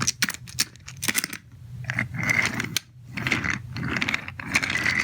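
Wooden toy trains and track being handled and pushed along, making a run of clicks, clacks and rattles.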